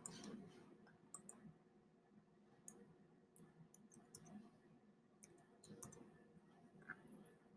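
Faint computer mouse clicks, about ten scattered irregularly over near-silent room tone.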